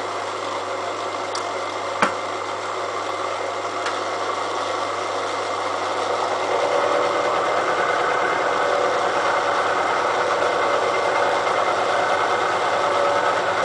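Elliott Omnimill 00 milling machine running and milling the steel railway-rail anvil on a 15-thou cut. There is a single sharp click about two seconds in, and the cutting gets louder about six seconds in.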